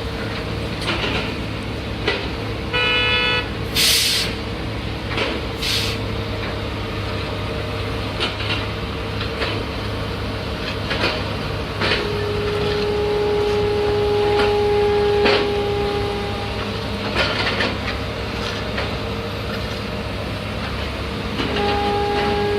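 Heavy construction machinery engine running steadily, with scattered knocks and clanks. A short horn-like toot sounds about three seconds in, and a longer steady horn-like tone from about 12 to 16 seconds.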